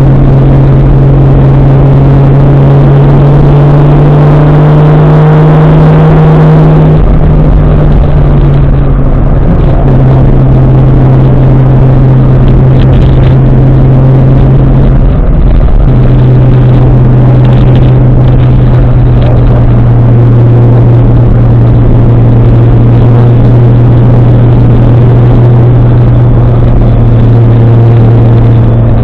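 Toyota 1JZ-GTE turbocharged inline-six in a Nissan 240SX driving under power, its engine note climbing for the first few seconds, dropping about seven seconds in and again about halfway through, then holding steady at moderate revs.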